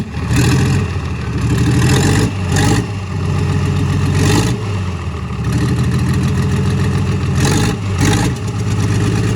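Old Isuzu diesel engine running after its overhaul, a steady rapid knocking beat with its sound swelling briefly several times as it is revved.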